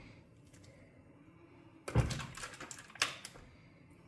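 Two sharp knocks, about two seconds in and again a second later, as butter beans are tipped from a plastic tub into a red enamel pot of filling.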